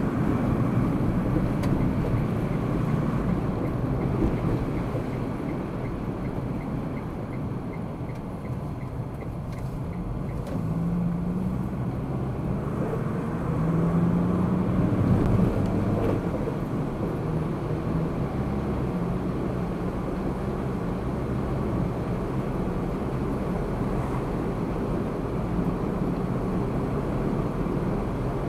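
Car driving in city traffic, recorded from inside the car by a dashcam: steady engine hum and road noise, with the engine getting louder in the middle as the car speeds up. For roughly the first ten seconds a faint regular ticking, about two a second, sits on top.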